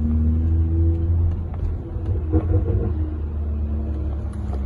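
BMW N55 turbocharged 3.0-litre inline-six on a full straight-pipe exhaust, running while the car drives. It gives a steady, deep, low-pitched drone, heard from inside the cabin.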